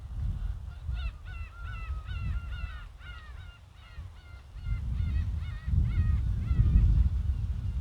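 Gulls calling in a rapid run of short, downward-sliding cries, over low wind rumble on the microphone that swells in the second half.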